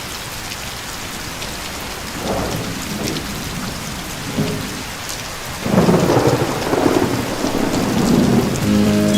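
Steady falling rain with rolls of thunder. Two shorter rumbles come in the first half, and the loudest, longest roll starts a little past halfway and lasts almost to the end.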